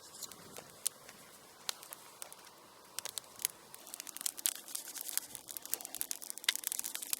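Wood campfire crackling and popping in irregular sharp snaps, sparse at first and getting busier about halfway through.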